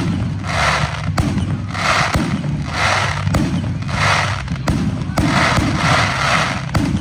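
Fireworks display: a run of crackling, hissing bursts about once a second, with sharp bangs among them and a low rumble underneath.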